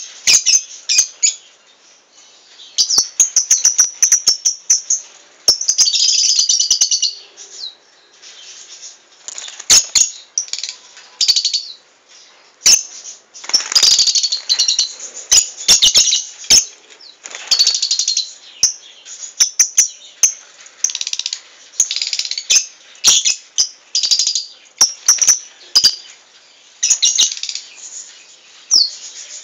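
Lovebirds chirping and chattering in shrill, high bouts that come and go, with many sharp clicks mixed in.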